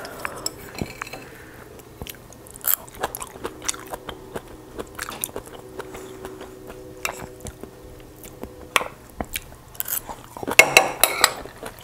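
Close-miked crunchy chewing and biting, with light clicks of metal chopsticks against a small metal bowl. A louder run of crunching comes near the end.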